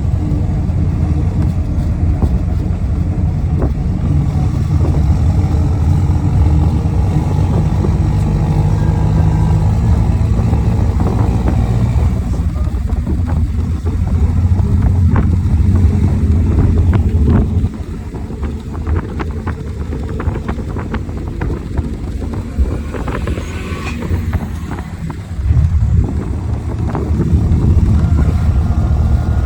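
Motor vehicle running with a steady low rumble. It drops back for several seconds past the middle, then picks up again near the end, with scattered light clicks.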